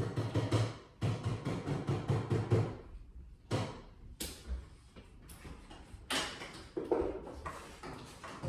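A run of irregular knocks and clunks, the loudest in the first few seconds, like tools and gear being handled on a job site.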